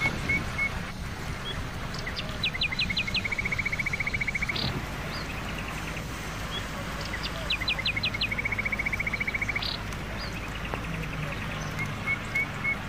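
A songbird singing the same phrase twice: a few quick falling whistles followed by a fast, even trill. Short single chirps come in between, over a steady low background rumble.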